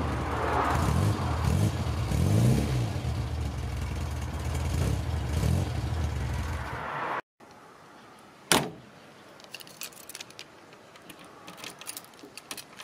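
A 1968 Morris Minor's four-cylinder A-series engine running, heard at the exhaust tailpipe, its pitch rising and falling briefly about two seconds in. It cuts off suddenly after about seven seconds; then comes one sharp click and light jangling of a bunch of keys as a key goes into the car's door lock.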